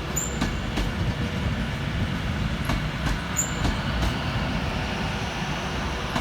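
Class 390 Pendolino electric train at the platform: a steady low rumble with scattered faint clicks and two short high squeaks.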